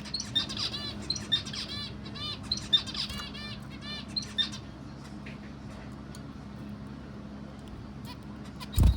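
A bird chirping rapidly, a run of short arched chirps several a second that stops about four and a half seconds in, over a steady low hum. A single loud low thump comes near the end.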